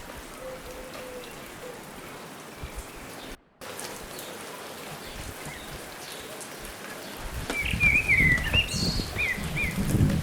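Steady outdoor hiss of rain-like noise, broken by a brief drop-out about three and a half seconds in. A low rumble comes in about seven seconds in, and a small bird gives a quick run of short, falling chirps near the end.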